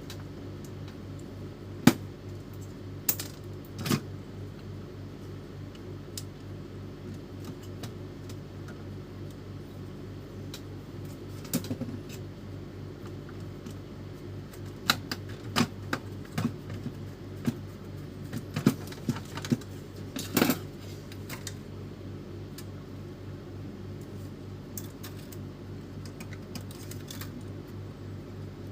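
Irregular clicks and knocks of plastic and metal parts on an Epson L310 inkjet printer being worked on, over a steady low hum, with a denser run of clicks in the middle stretch.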